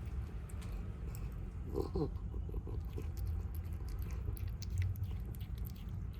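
Stray kittens eating, with scattered crunching clicks of chewing and a brief pitched sound about two seconds in.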